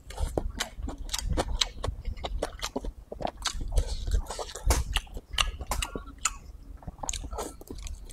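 A person chewing food right up close to the microphone, a dense run of irregular wet mouth clicks and smacks.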